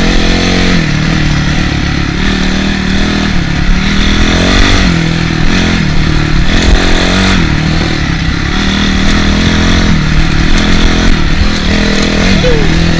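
Honda CRF450R's single-cylinder four-stroke dirt-bike engine riding a trail, its revs rising and falling again and again as the throttle is worked.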